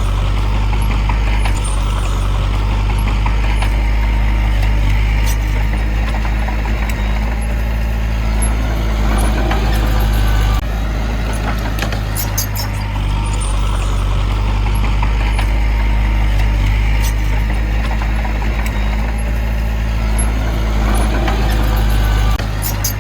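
Heavy diesel earthmoving machinery engine running steadily with a deep drone, with scattered light metallic clicks and a brief dip in level about ten seconds in.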